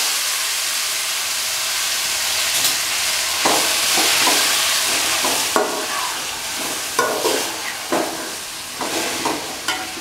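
Jackfruit pieces sizzling as they are sautéed in hot ghee in an aluminium pot. A slotted steel ladle scrapes and knocks against the pot as they are stirred, about once a second from roughly three and a half seconds in.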